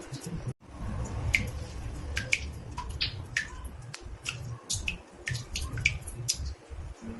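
Water drops falling into a bathtub: irregular pitched plinks, a few each second, over a steady low rumble, with a momentary dropout about half a second in.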